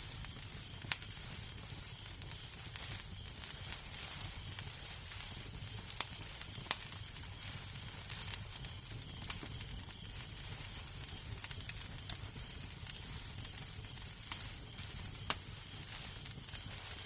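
Wood fire crackling in a fireplace: a steady soft hiss over a low rumble, broken by scattered sharp pops every few seconds.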